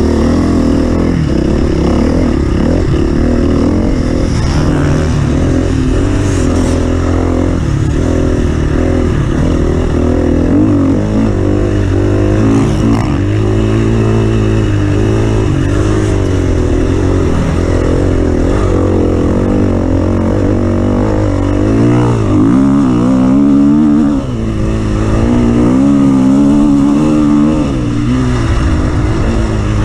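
An offroad vehicle's engine running hard, its pitch rising and falling over and over as it is revved and eased off, with a short drop in level about three quarters of the way through.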